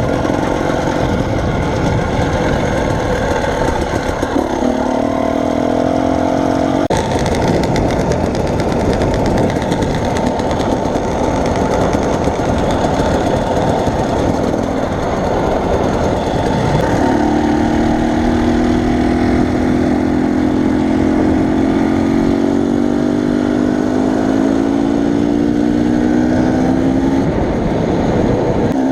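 A vehicle on the move: a steady rush of engine, road and wind noise, with an engine note that rises briefly about five seconds in and then climbs slowly from about seventeen seconds in until near the end.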